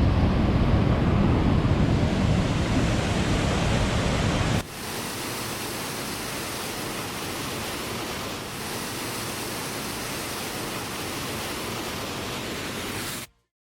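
Steady rushing water, with wind buffeting the microphone and making it heavy and low for the first four and a half seconds. After a sudden cut it goes on as an even, brighter rush, then stops abruptly near the end.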